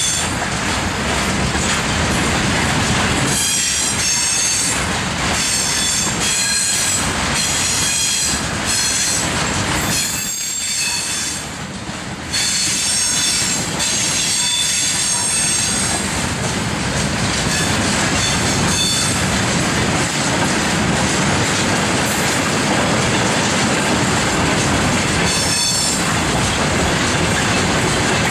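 Freight train of tank cars and open wagons rolling past: a steady rumble and clatter of wheels on the rails, with high-pitched wheel squeal coming and going, strongest in the first third and again briefly near the end.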